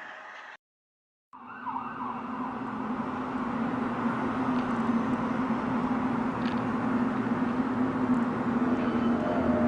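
Steady low droning hum with a noisy rumble under it, of the kind presented as a mysterious 'sky trumpet' sound, starting after a brief dead silence about a second in and slowly growing louder. Just before the silence, a different sound with several steady tones fades away.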